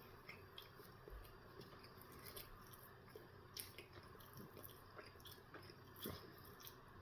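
Faint chewing of a breakfast sandwich: soft, scattered mouth clicks over near-silent room tone, a little stronger about three and a half and six seconds in.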